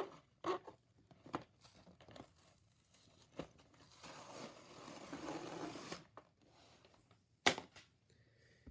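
A die-cast toy car 2-pack's blister packaging being handled: scattered small clicks and rustles, then about two seconds of tearing and crinkling about four seconds in, and a sharp click near the end.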